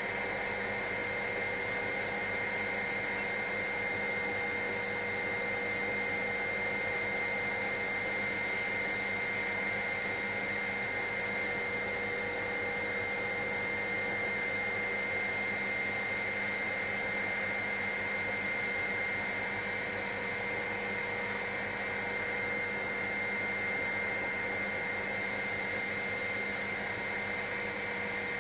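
Helicopter cabin noise in flight: a steady drone of rotor and engine with constant whining tones, unchanging throughout.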